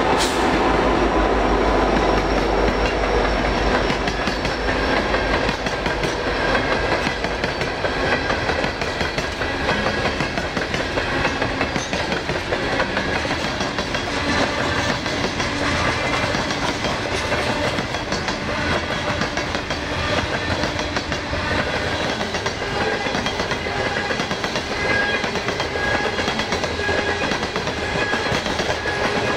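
A Norfolk Southern coal train passing close by. A diesel locomotive's rumble fades over the first couple of seconds, then loaded coal hopper cars roll past with steady wheel-on-rail noise and a clickety-clack over the rail joints.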